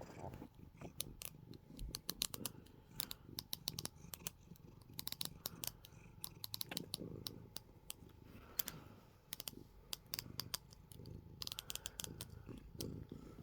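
Domestic cat purring softly, with many scattered sharp clicks throughout.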